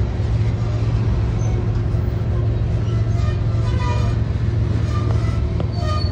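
Empty tank cars of a freight oil train rolling past, a steady low rumble. Brief high-pitched squeaks come in about halfway through.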